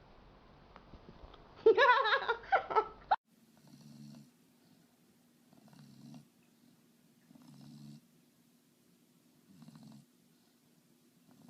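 A cat rumbling with each breath, about one breath every two seconds, as it purrs or snores at rest. Before it comes a loud, wavering, pitched cry lasting about a second and a half that cuts off suddenly.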